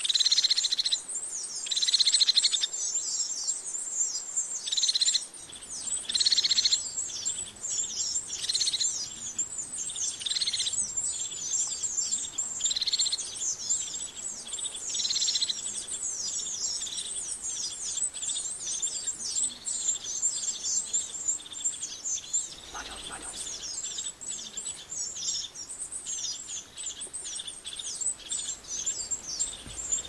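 Small birds chirping rapidly and continuously at a high pitch. Through the first half, a louder call of under a second repeats about every two seconds, then fades out.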